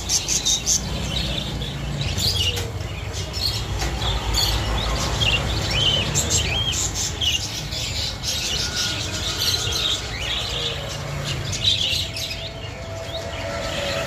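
Caged Java sparrows chirping: many short, high calls that overlap. In the first second there is a quick run of pulsed notes, about six a second.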